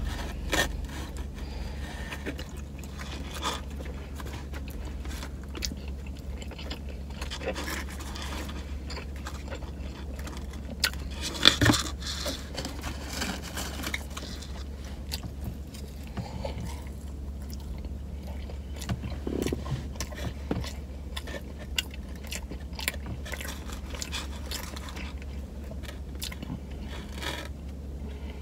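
Close-up eating sounds: a person biting into and chewing a soft sub sandwich with lettuce, with small wet mouth clicks and crackles throughout and one louder click about twelve seconds in. A steady low hum runs underneath.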